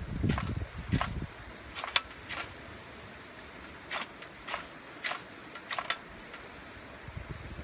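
Campfire crackling: a series of sharp, irregular pops and snaps from the burning wood. Wind buffets the microphone with a low rumble in the first second or so.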